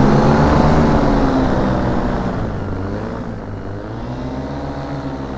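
Paramotor engine and propeller running in flight, with wind rushing past; the engine's pitch wavers and dips, and the sound slowly eases off toward the end.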